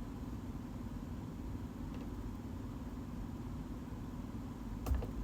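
Steady low background hum and hiss of room tone, with a brief faint click near the end.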